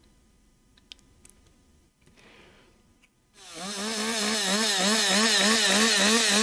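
Chainsaw starts running about three seconds in, its pitch wavering up and down about three times a second. Before that, near silence with a few faint clicks.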